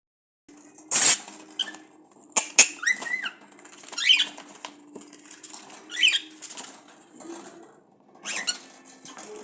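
Pet cockatiels making short chirping calls about every two seconds, with a loud burst of wing flapping about a second in and a couple of sharp clicks soon after.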